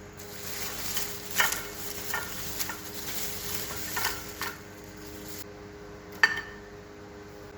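Samosas frying in hot oil, with a sizzling hiss and a few sharp clinks of a metal utensil against the pan. The sizzle thins out after about four and a half seconds, and one loud clink comes a little after six seconds.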